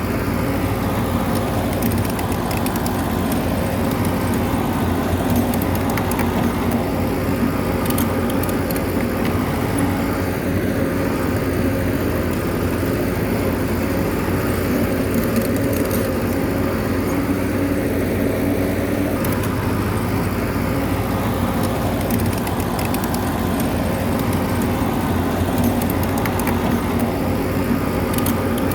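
Bulldozer's diesel engine running steadily under load, with a few faint clicks scattered through.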